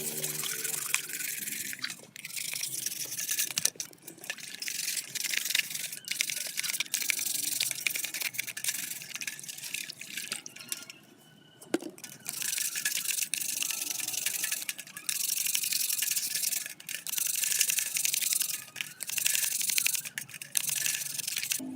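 Hand scrubbing or brushing during the clean-up of old fan parts: long stretches of dense, high hissing strokes, broken by short pauses and by one longer pause about halfway through that ends with a sharp click.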